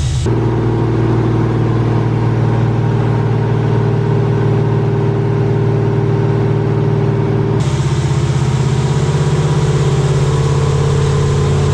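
Supercharged Toyota truck engine running at a steady speed on a chassis dyno, not revving up. Its tone changes abruptly about two-thirds of the way through.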